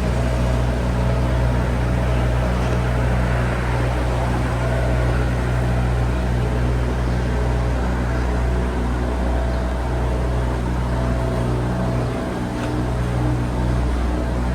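A loud, steady, low mechanical drone with a hum of several pitches, running evenly throughout.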